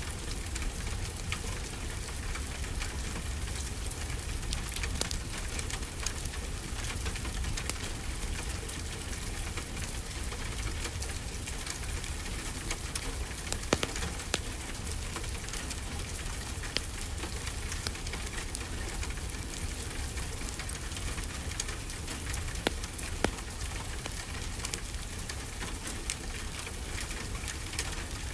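Steady rainfall with a crackling wood fire: an even hiss of rain with scattered sharp pops, one louder about fourteen seconds in.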